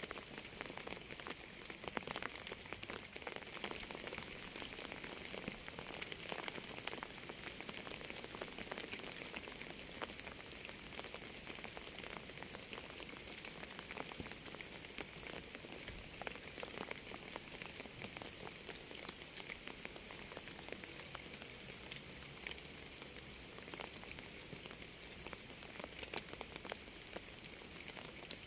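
Steady rainfall: an even hiss with many individual raindrops ticking sharply throughout.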